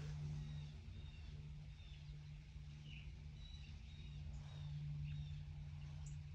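Small bird giving a series of short, high chirps, over a steady low hum.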